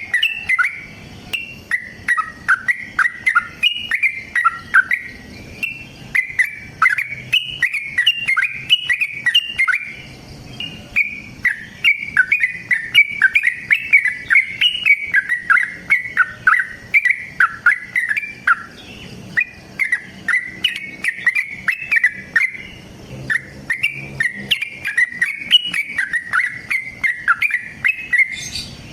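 Yellow-vented bulbul (trucukan) singing a long, rapid run of short chattering, bubbling notes, phrase after phrase with only brief pauses.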